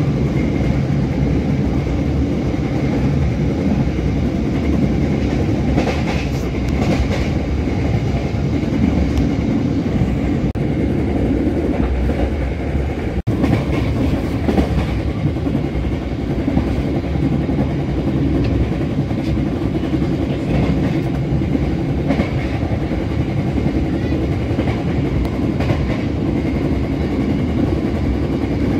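Steady rumble of the Bengawan Solo passenger train running along the rails, heard from inside the carriage, with a brief drop-out about thirteen seconds in.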